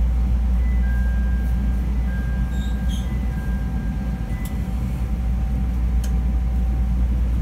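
CTA Green Line rail car standing at the platform with its doors closed: a steady low hum from the car's running equipment. A faint steady tone runs under it, and faint high tones come and go in the first half.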